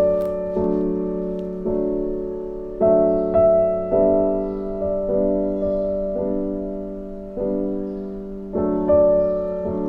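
Slow, soft piano music: sustained chords struck about once a second, each fading before the next.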